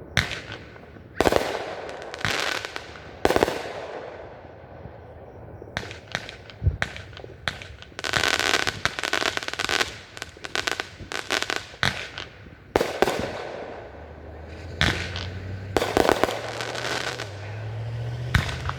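Aerial fireworks going off: a few sharp shell bursts with echoing tails, then a dense run of crackling reports through the middle, and more bursts near the end.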